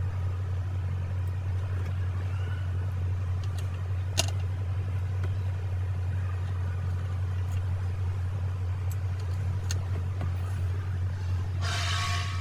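Mercedes E350 running, a steady low hum, with a single sharp click about four seconds in and a short burst of noise near the end.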